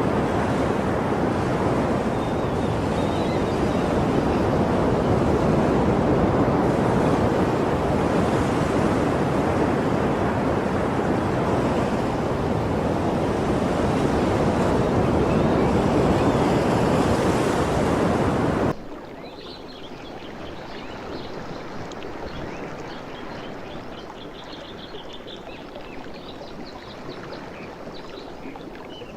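Ocean waves and surf rushing steadily. About two-thirds of the way through it cuts off abruptly to a much quieter, gentler water sound with faint high chirps.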